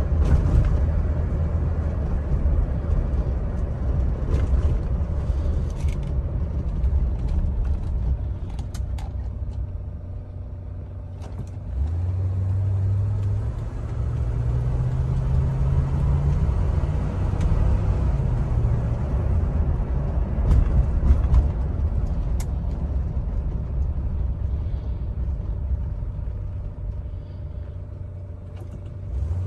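1977 Cadillac Eldorado's 425 V8 and road noise heard from inside the cabin while driving: a low, steady rumble. About twelve seconds in, the engine note rises as the car picks up speed, then settles back down a few seconds later.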